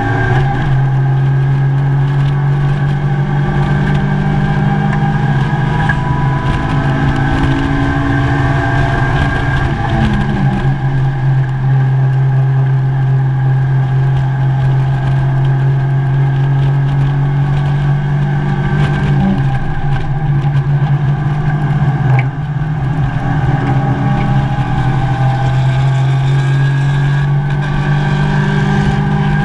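Mazda MX-5 race car's four-cylinder engine running hard at high revs, heard from inside the stripped, caged cockpit, with a few brief breaks in its note as the driver changes gear.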